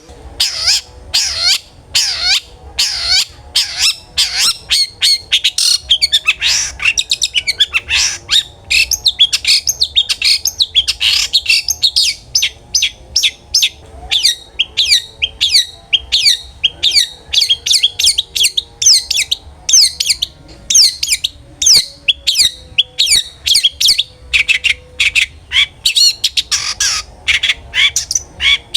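Long-tailed shrike (cendet) singing loudly in full voice, an unbroken string of short, sharp, harsh notes several a second.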